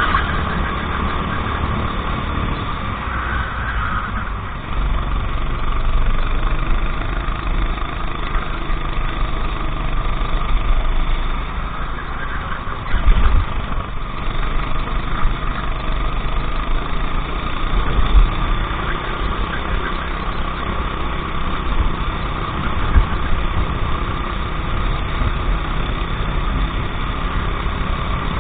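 Racing go-kart engine running continuously at speed, a steady drone with a few brief low thumps.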